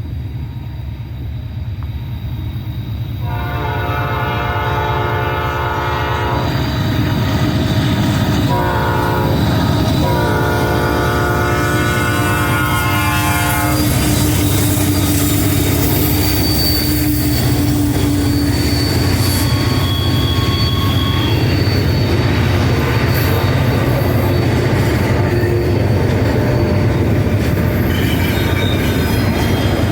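Locomotive air horn sounding a multi-note chord in two long blasts, about three seconds in and again around nine seconds in. After that comes the steady rumble and rail clatter of a passing train, with some wheel squeal.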